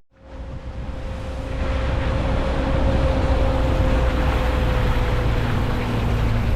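A motor vehicle running steadily, fading in over the first second or so.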